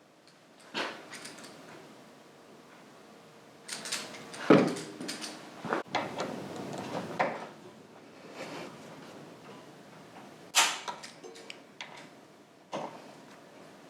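Workshop handling sounds of tools and metal parts: scattered clicks, clunks and short scrapes, with two louder knocks about four and a half and ten and a half seconds in.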